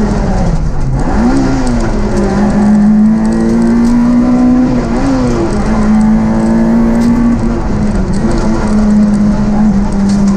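Rally car engine at high revs, heard from inside the cockpit. The note stays high and steady, dipping and climbing briefly a few times.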